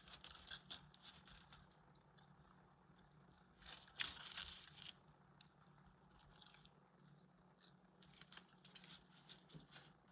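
Someone eating a crispy fried chicken sandwich: faint crunching and chewing close to the microphone in short clusters, loudest about four seconds in, over a low steady hum.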